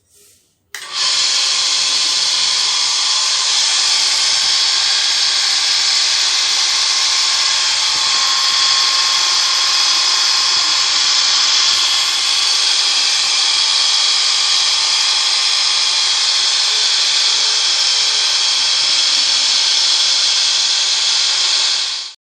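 Electric motor running steadily at constant speed, starting about a second in and cutting off sharply just before the end.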